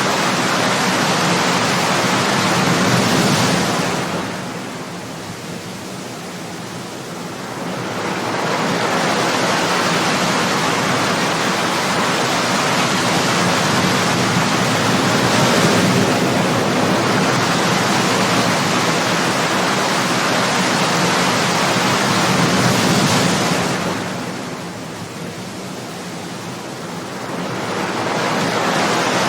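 Ocean surf: waves breaking and washing in a continuous rush, easing twice for a few seconds before the next wave builds.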